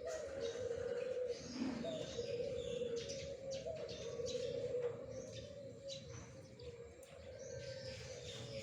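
Zebra doves (perkutut) cooing in repeated phrases, each opening with a short rising note and running on as a trilled coo, a new phrase about every second or so, softer in the second half. Small birds chirp high above the coos.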